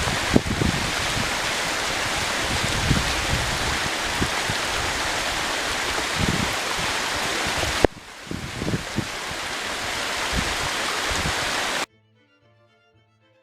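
Rushing water of a small runoff stream, a steady loud hiss with scattered low thumps, broken by an abrupt cut about two thirds of the way in before it resumes. It stops suddenly near the end, and quiet violin music takes over.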